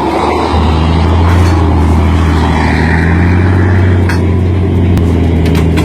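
Motor vehicle engine running with a steady low drone, over road and rumble noise.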